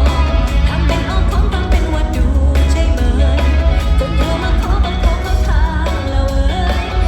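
Thai pop song performed live: a female singer with a band, over heavy bass.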